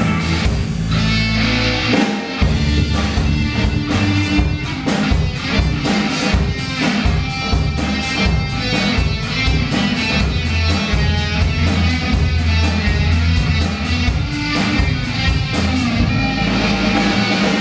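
Rock band playing an instrumental passage: electric guitar over bass and drums, with a steady cymbal beat.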